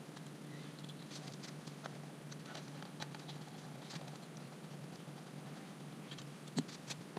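Scattered faint light clicks and taps of metal parts and tools being handled as the front sprocket cover goes back onto a Suzuki DL250 motorcycle, over a low steady hum; a sharper click about six and a half seconds in.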